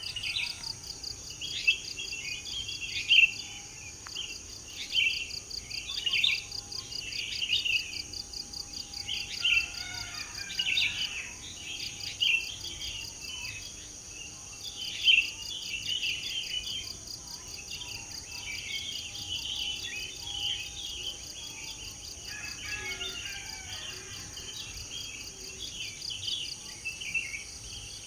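Songbirds chirping and singing in quick, busy phrases, with a few sharper loud chirps, over a steady high-pitched insect trill.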